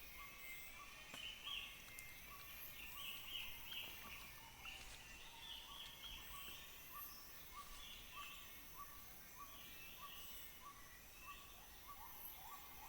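Faint Borneo rainforest ambience: one animal repeats a short call at an even pace, roughly every three-quarters of a second, while birds give higher calls and insects drone steadily.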